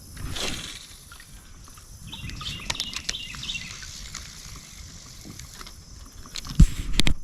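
Open-air ambience on the water: a brief swish about half a second in, birds chirping faintly for a second or so in the middle, then two sharp knocks near the end.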